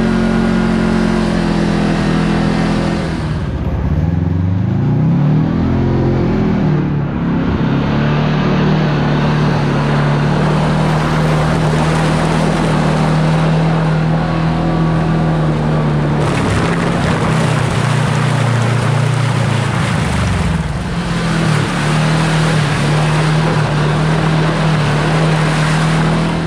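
Side-by-side UTV engine running steadily under way in snow, with tyre and wind noise. The pitch rises and drops back twice, around a fifth of the way in and again past the middle.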